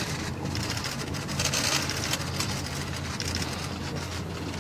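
A motor runs steadily with a low hum, and short spells of hiss come and go over it.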